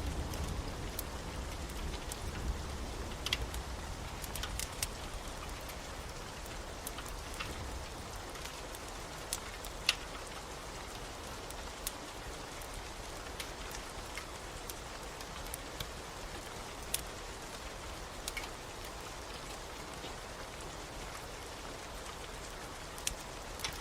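Steady rain with a wood fire crackling: sharp pops scattered irregularly, about one a second, one louder pop about ten seconds in. A low rumble of thunder dies away at the start.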